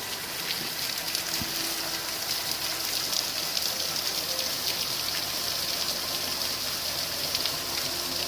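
Steady rush of falling water from a rainforest waterfall.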